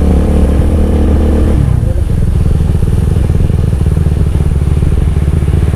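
Motorcycle engine running loud at steady revs, then its note drops to a lower, rougher run about a second and a half in, as the throttle is eased or a gear changes.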